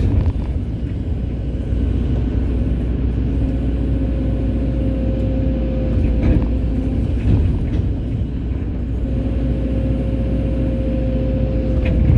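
Hydraulic excavator's diesel engine running steadily under load, with a thin whining tone that fades in and out twice and a couple of short knocks about halfway through.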